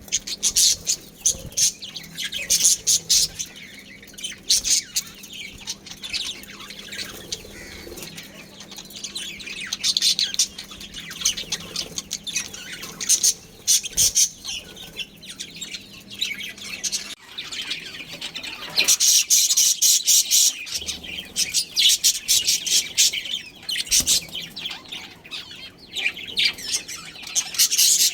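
Budgerigars chirping and chattering, a dense run of quick high chirps from several birds at once, busier and louder in the second half. A faint steady hum sits under the first half.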